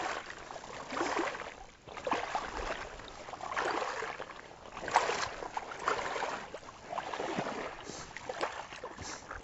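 Water splashing and swishing in slow, uneven swells about once a second.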